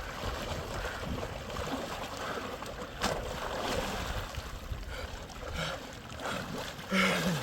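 Snowstorm wind blowing across the microphone as a steady rumbling noise, with one sharp knock about three seconds in.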